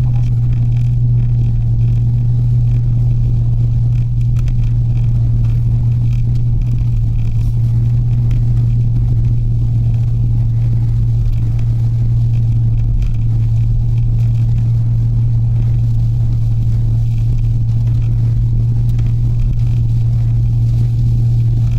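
Mitsubishi Delica van being driven: a steady, even drone of engine and road noise that holds the same pitch throughout.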